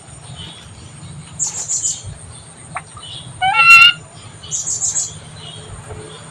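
Bird calls: two short runs of quick, very high chirps, and between them one loud, short call rising in pitch.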